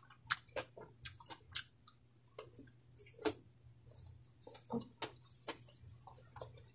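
Close-miked chewing of a mouthful of food, with irregular wet smacks and small clicks from the mouth.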